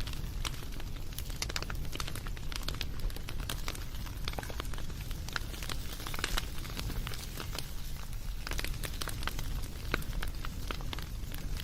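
Wood fire crackling: frequent irregular pops and snaps over a steady low rumble.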